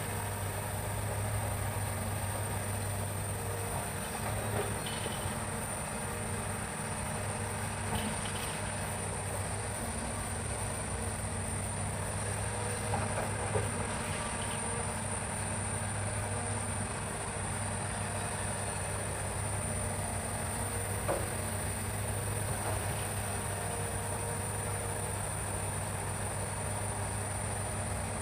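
Hitachi excavator's diesel engine running steadily, with a few short knocks and clanks scattered through, over a constant high-pitched drone of forest insects.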